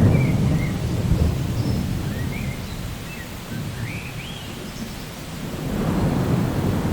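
Steady rain with rolling thunder: a low rumble of thunder at the start that fades away, and another that builds near the end.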